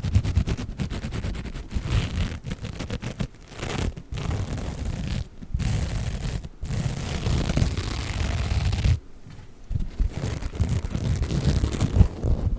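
Silver and gold sponges being squeezed and rubbed close to the microphone: continuous crinkly scratching with a handling rumble, broken by short pauses and one longer pause about nine seconds in.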